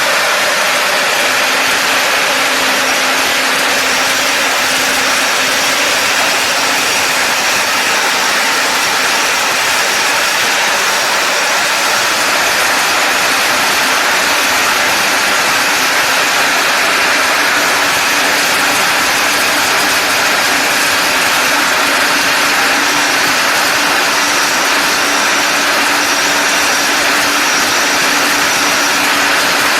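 Steady machine running noise with a faint steady hum, like a motor running.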